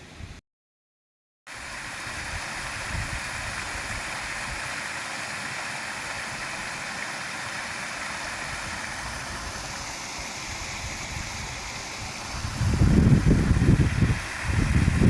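Steady rush of running water, like a stream. Bursts of low rumbling come twice near the end.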